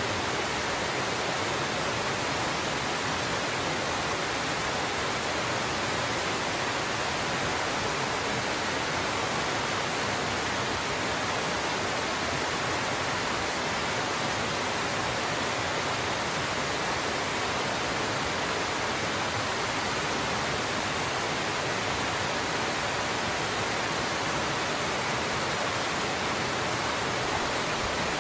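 A waterfall partly hung with ice: water pouring and splashing in a constant, even rush with no breaks.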